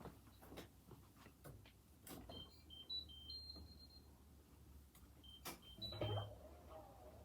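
A washing machine's electronic beeper playing a short tune of high beeps, twice, typical of the end-of-cycle signal, with a few faint clicks and knocks around it over a low hum.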